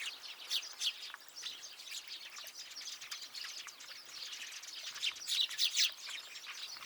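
Small songbirds chirping: a dense, unbroken run of short overlapping calls, loudest about five to six seconds in.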